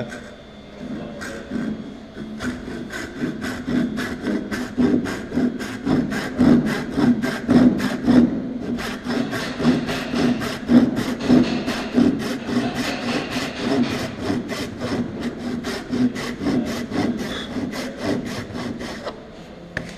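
Hand saw cutting into a wooden tenon with steady back-and-forth strokes, making an angled 45-degree cut down to the line. The strokes start lighter as the saw is started in the kerf and grow stronger after about two seconds, stopping just before the end.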